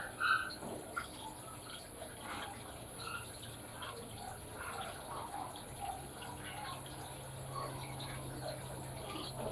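Panasonic washing machine taking in water: a faint trickle and scattered drips over a steady low hum.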